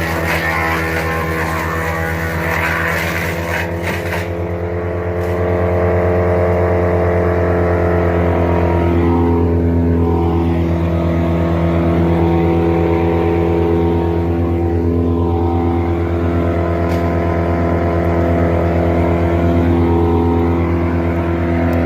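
Morbark Eager Beaver 1215 wood chipper running steadily at high revs with its auto clutch engaged and the chipper drum spinning. There is a noisy crackling over the engine in the first few seconds, then the engine goes on steadily and a little louder.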